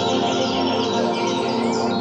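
Soft relaxation music of long sustained tones with many quick, high bird chirps and trills layered over it.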